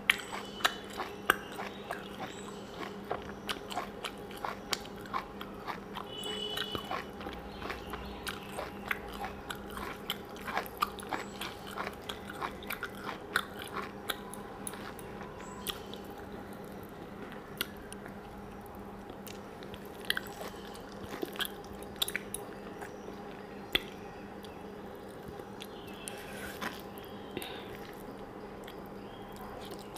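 Close-miked eating sounds: chewing a mouthful of rice and vegetable curry, with many short wet clicks and smacks from the mouth, and fingers mixing rice and curry on a clay plate. A steady low hum runs beneath.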